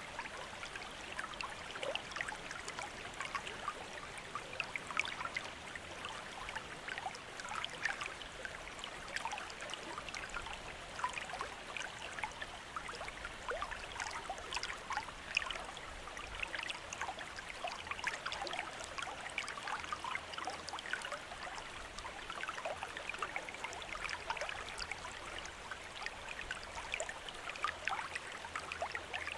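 Bamboo water fountain running: a steady trickle of falling water with many small splashes and droplets scattered through it.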